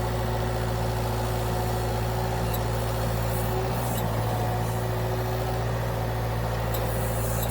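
Engine of the log-lifting equipment running steadily at one speed, a low even hum with no change in speed.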